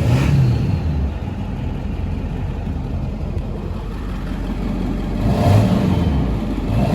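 Ford 7.3 Power Stroke turbo-diesel V8 running just after start-up through a 4-inch straight exhaust. It idles steadily and is briefly revved near the start, again about five and a half seconds in, and at the end.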